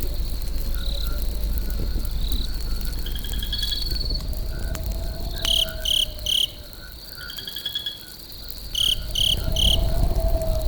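Crickets and other insects chirping: short high chirps in groups of three and brief rapid trills over a steady high insect tone, above a low continuous rumble that drops away for a second or so in the middle.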